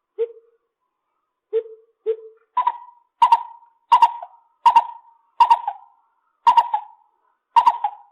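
Lesser coucal calling: a series of hollow, popping notes, a few lower ones at first, then higher-pitched notes about every 0.7 seconds, each starting sharply.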